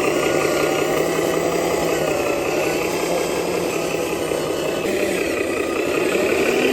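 Steady engine-like running sound of a remote-control miniature truck, with a faint wavering whine.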